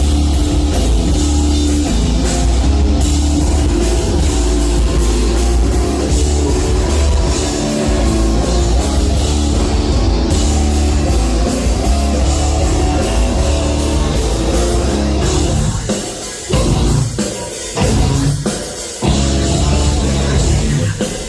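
Live heavy metal band playing loud: distorted guitars, bass and drum kit in a dense, steady groove, breaking into stop-start hits with short gaps in the last few seconds.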